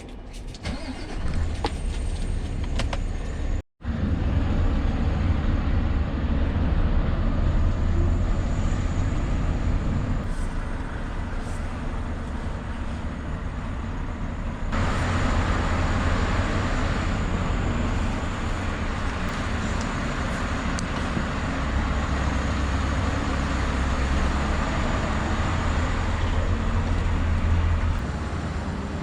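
Scania V8 truck running and driving, a steady low engine rumble with road noise. A sudden brief dropout comes about four seconds in, and the noise turns brighter and louder about halfway through.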